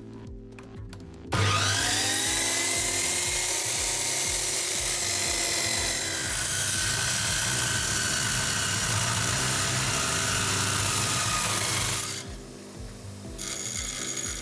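Handheld power tool starting about a second in, its whine rising up to speed, then running steadily under load for about ten seconds before cutting out.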